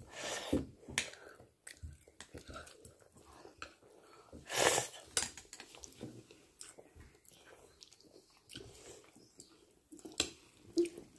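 Close-miked chewing and mouth noises of a person eating soft squash and rice, with short clicks of a spoon and fork against the plate. Two louder noisy bursts stand out, one about half a second in and one about halfway through.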